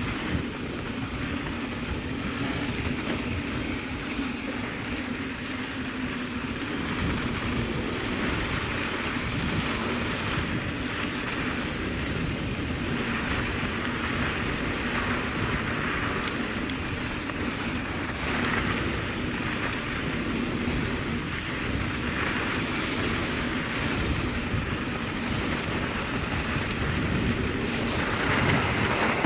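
Mountain bike riding along a dirt trail: steady tyre noise over dirt and rock, with the bike rattling and wind rushing over the microphone.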